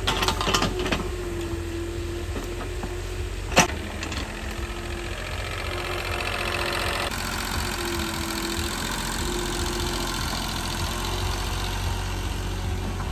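Engine running steadily at a low, even pace, with one sharp click about three and a half seconds in.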